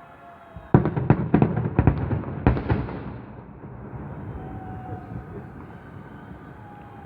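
Fireworks salute going off: a rapid cluster of sharp bangs starting under a second in and lasting about two seconds, ending with one last heavy bang, then a rumble that trails away.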